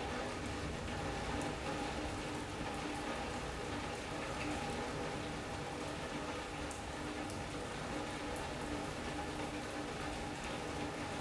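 Steady rain on a sunroom's roof and glass, with scattered drops tapping, over a faint steady hum.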